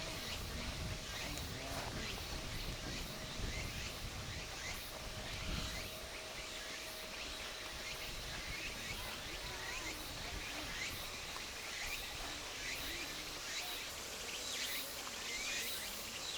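Outdoor ambience of many small birds chirping in short, falling notes, over a low rumble that eases off about six seconds in. Faint voices are in the distance.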